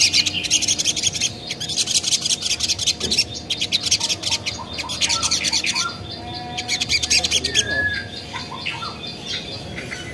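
Sogok ontong (little spiderhunter) calling: a very fast, high-pitched chattering run of notes, broken by short pauses, then a few lower whistled, gliding notes from about six seconds in, fading near the end. This is the bird's lure call, used to make other sogon answer.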